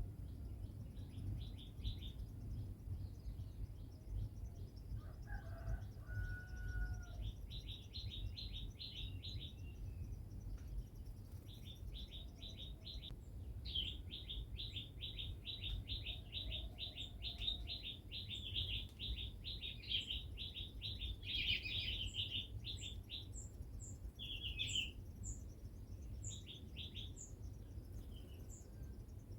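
Small birds chirping in long runs of short, quickly repeated notes, with a brief whistled note near the start and a steady low rumble underneath.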